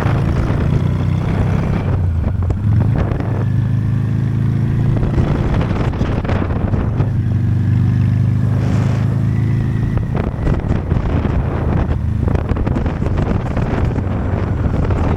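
Honda Steed V-twin motorcycle engine running steadily at riding speed, with wind buffeting the microphone.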